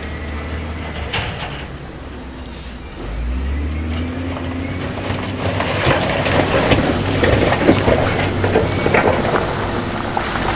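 Heavy diesel machinery engine running, rising and getting louder about three seconds in, then a long rattling clatter of loose stones tumbling and grinding against each other over the engine.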